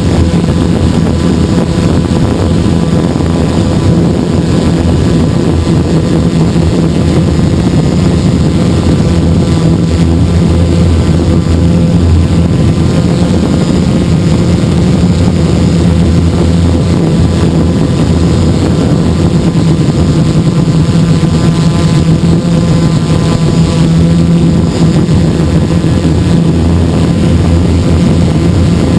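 Hexacopter's six electric motors and propellers running in flight, a loud steady buzz with several steady tones, heard close up from the camera mounted on the craft.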